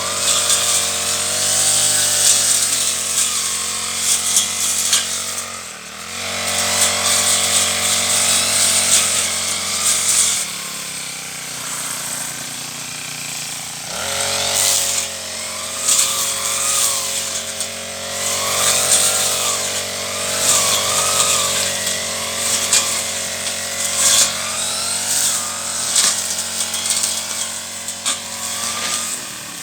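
Brush cutter engine running while cutting weeds, its pitch dipping and rising as the throttle is eased and opened, with a quieter stretch about a third of the way in.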